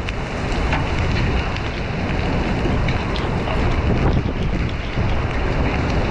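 Strong wind and heavy rain from a tornado's storm, with wind buffeting the microphone and scattered drops ticking sharply.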